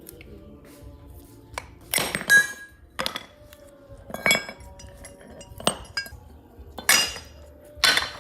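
Metal parts knocking and clinking against each other in a series of about six separate strikes, several of them leaving a brief metallic ring.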